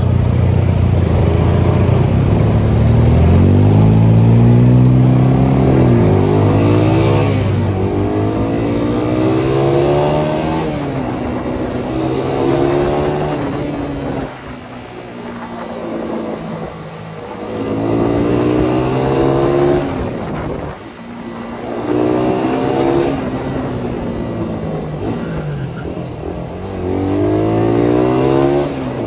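Suzuki Satria FU 150 motorcycle's single-cylinder four-stroke engine, fitted with a Thailand-spec CBU exhaust, revving up repeatedly: the pitch rises, drops back sharply and rises again, about six times.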